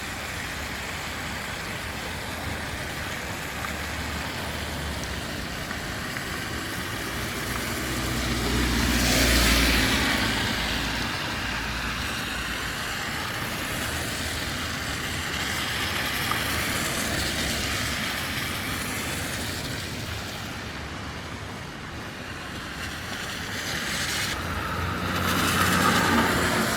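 Road traffic: a steady wash of street noise with two vehicles passing close by, one about a third of the way in and another near the end, each swelling up with a low engine rumble and fading away.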